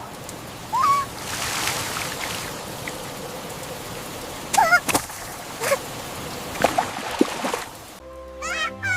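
A duckling quacking about five times, in short calls, over a steady hiss of rain.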